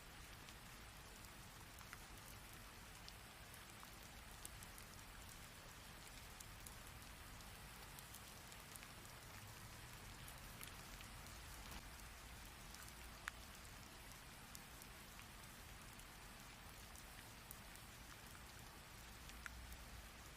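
Faint, steady rain falling, with scattered sharp drop ticks over a low rumble; one tick about thirteen seconds in stands out.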